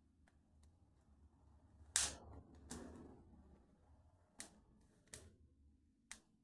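Wood fire in a fireplace crackling faintly, with scattered sharp pops; the loudest comes about two seconds in and smaller ones follow every second or so.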